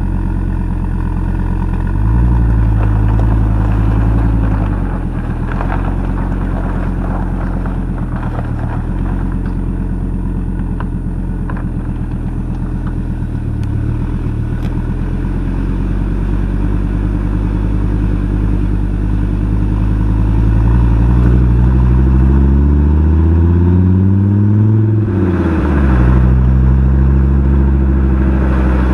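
Exhaust of a cold Fiat Coupé 20V Turbo's turbocharged inline five-cylinder engine running steadily at low revs. Near the end the engine speed climbs steadily for about five seconds, then falls off abruptly and settles back to a steady note.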